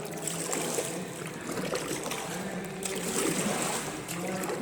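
Kayak paddles dipping and dripping as kayaks glide through the water of a flooded mine tunnel, a steady trickling and splashing.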